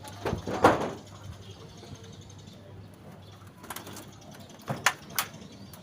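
Homing pigeons flapping their wings in short flurries, the loudest about half a second in and two more near the end.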